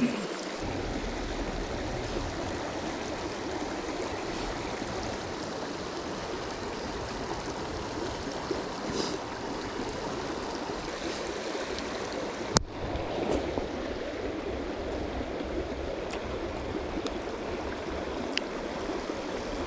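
A river flowing over rocks, a steady rushing, with one sharp click a little past halfway.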